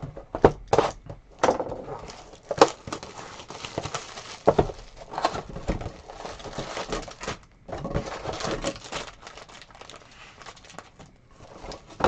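Plastic and foil trading-card packaging crinkling and tearing as it is handled, with irregular crackles and several sharp clicks.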